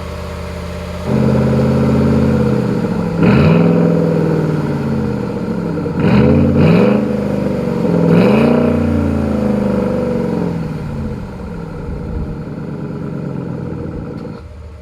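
Ford Explorer Sport Trac's 4.6-litre V8 through an aftermarket active exhaust system, idling and then revved three times, each rev rising and falling back to idle. The exhaust note steps louder about a second in and quiets near the end.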